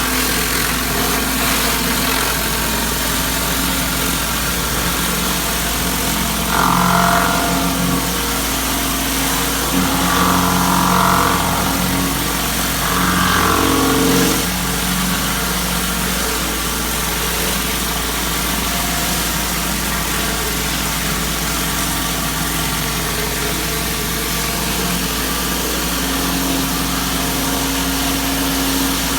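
A gas pressure washer running steadily, its engine droning under the hiss of the high-pressure spray. Three times, in the first half, the sound briefly gets louder and brighter.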